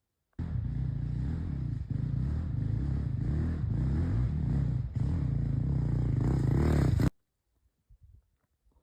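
250cc four-stroke dirt bike engine revving up and down under riding, with two brief dips, about two and five seconds in. It climbs in pitch and loudness toward the end, then cuts off abruptly.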